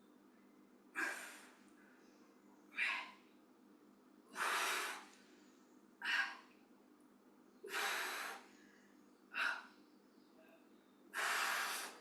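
A woman breathing hard in sharp, rhythmic breaths, one about every second and a half, with every other breath drawn out longer, in time with the lifts of a set of overhead presses with hand weights.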